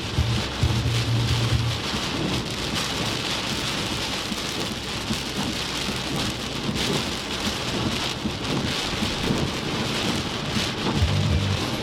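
Heavy storm rain pouring down steadily. A low rumble sits under it in the first two seconds and comes back near the end.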